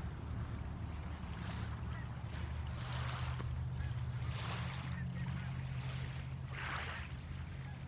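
Small waves washing onto a lakeshore in soft swells every second or two, over a steady low rumble.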